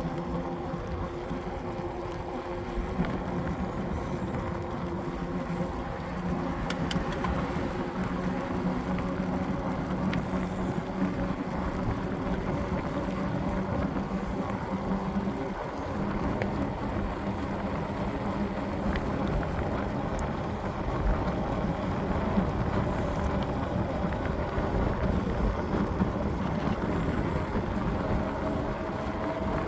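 Engine running at a steady speed, with wind noise on the microphone.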